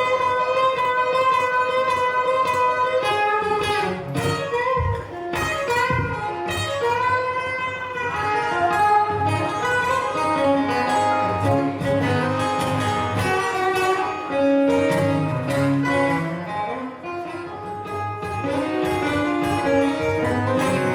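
Live blues band playing an instrumental break: a lead guitar holds and bends sustained notes over the band's bass and drums.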